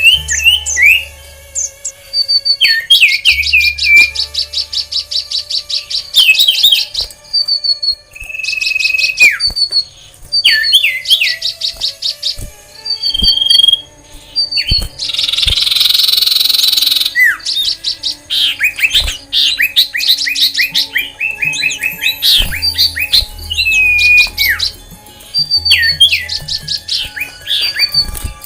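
Several caged songbirds calling and singing over one another: rapid trills, sharp chirps and falling whistled notes. A harsh, rasping burst lasting about two seconds comes midway.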